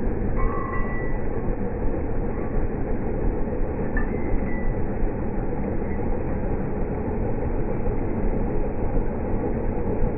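Snow-clearing machine running steadily under load, a dense even engine rumble.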